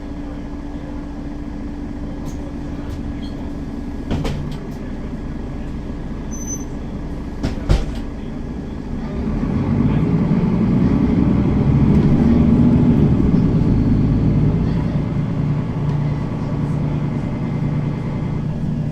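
Mercedes-Benz Citaro facelift city bus heard from inside while driving, with its engine and drivetrain running steadily. Two short knocks come about 4 and 8 seconds in. About halfway through the engine grows louder as the bus accelerates, then eases back a little near the end.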